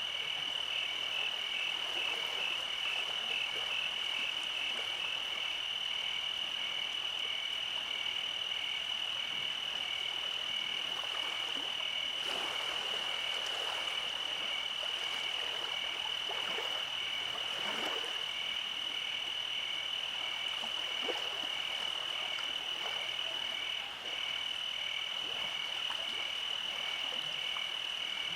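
Night chorus of calling frogs and insects: a steady high-pitched trill with a second call pulsing at an even beat beneath it.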